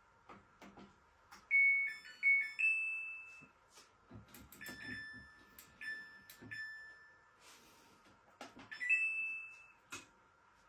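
Samsung washing machine control panel beeping as its buttons and dial are worked. A short rising chime of two or three notes comes about a second in, then a run of short single beeps with clicks between them, and another rising two-note beep near the end. A faint steady tone runs underneath.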